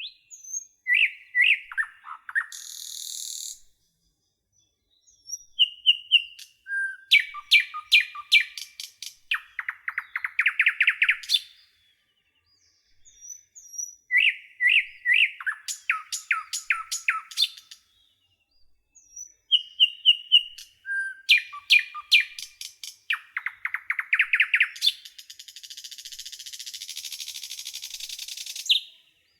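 Common nightingale singing: four song phrases separated by short pauses, each mixing clear whistled notes with fast runs of repeated notes. The last phrase ends in a long buzzy, hissing trill.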